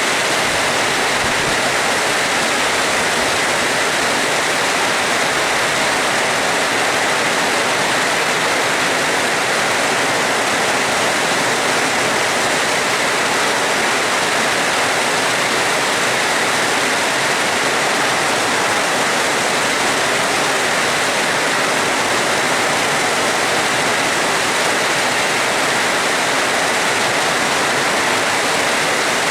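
Steady rain, an even, unbroken hiss with no thunder or other distinct sounds in it.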